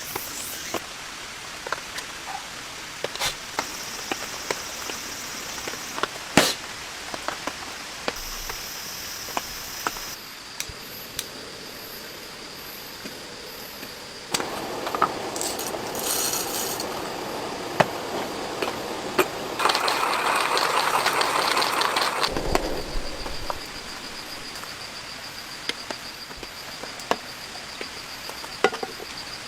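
Steady rain with scattered sharp drops tapping. About halfway through, a louder, noisier stretch rises for several seconds, then drops back to the rain.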